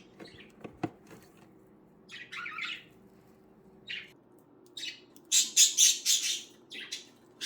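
Budgerigars chirping in short high calls that grow louder and come thick and fast in the last two seconds. A few light clicks sound near the start.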